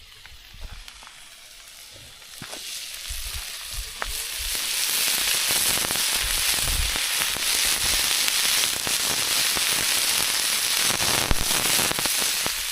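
Steak sizzling in a hot frying pan over a wood campfire. The sizzle builds up about four seconds in and then holds steady, with a few sharp clicks.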